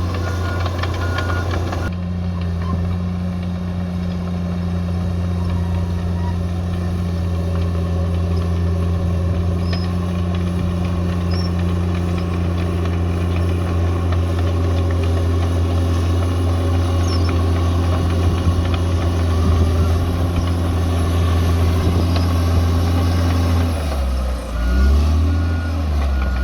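Bulldozer's diesel engine running steadily, with a reversing alarm beeping at the start and again near the end. About 24 seconds in, the engine note sags and climbs back.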